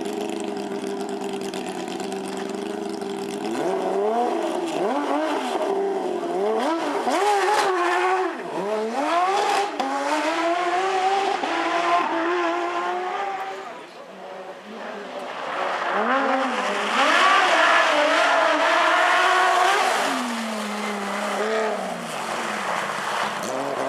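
Porsche rally car engine holding steady revs, then about three and a half seconds in accelerating hard, its revs rising and falling again and again through gear changes. The sound dips briefly around fourteen seconds in and comes back louder.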